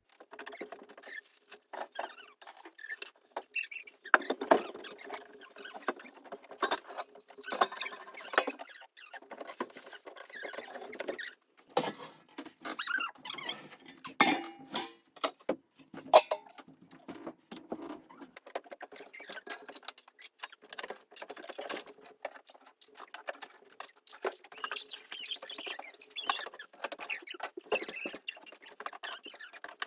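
Metal household pots and utensils being taken out one after another and set down on the floor: a steady run of clinks, knocks and scrapes, some with a short ring.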